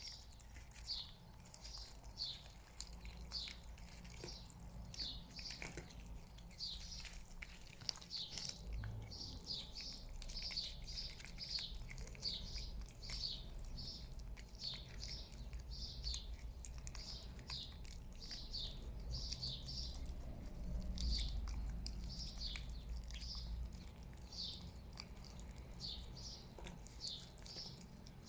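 A small bird chirping over and over, short high notes that slide downward, about one or two a second, with faint clicks and a low rumble underneath.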